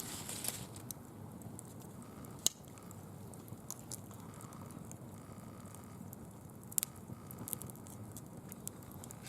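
Small bonfire of dry fallen leaves crackling, with light ticks throughout and sharp snaps about two and a half seconds in and again near seven seconds.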